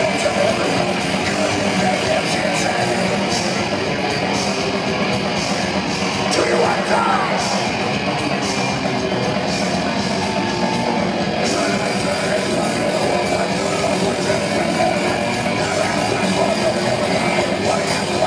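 Heavy metal band playing live at full volume: distorted electric guitars, bass and pounding drums, with yelled vocals over the top.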